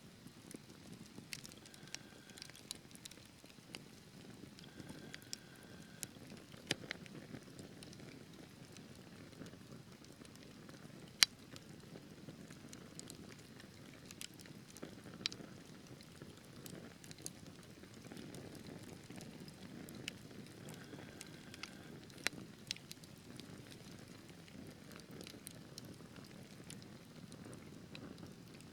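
Wood fire burning in a fireplace: a soft steady rumble of flames with irregular sharp crackles and pops from the logs, one louder pop about eleven seconds in.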